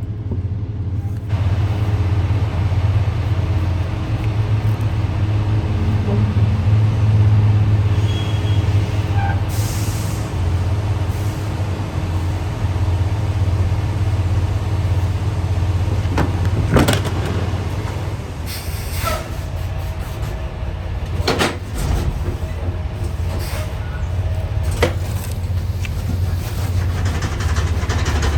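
Semi truck's diesel engine running with a steady deep rumble, heard from inside the cab, with a few sharp clunks spaced a couple of seconds apart in the second half.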